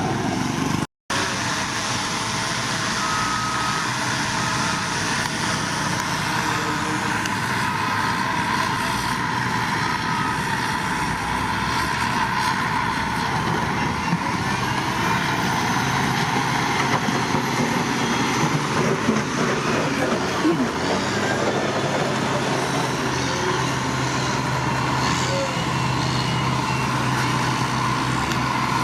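Diesel engine of heavy earthmoving machinery running steadily under work. The sound drops out for a moment about a second in.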